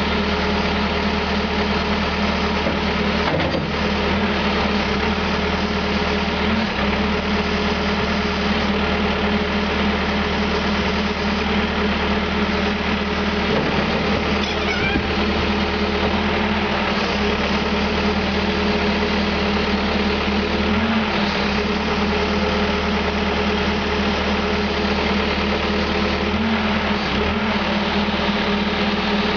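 Diesel engine of a Caterpillar 420E backhoe loader running steadily, with its note shifting briefly a few times.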